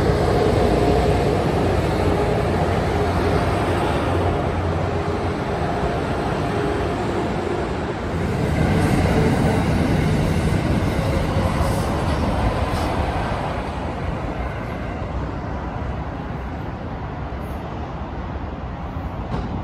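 Passenger train running by on the tracks: a steady rumble with a faint whine in the first half, swelling again about eight seconds in, then fading away over the last few seconds.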